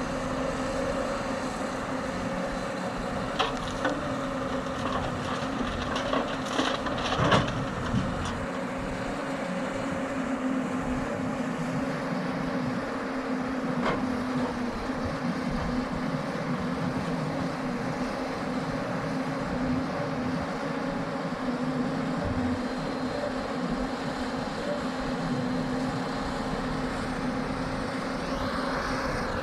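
Hyundai excavator's diesel engine running steadily under load, with a cluster of clanks and knocks a few seconds in and a single knock midway. A rising whine comes near the end.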